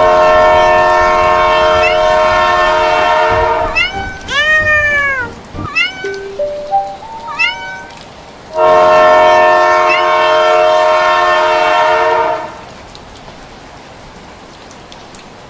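Train air horn sounding a long steady chord for nearly four seconds, then a cat meowing several times, rising and falling, then a second long horn blast of about four seconds. After the second blast only a steady low hiss remains.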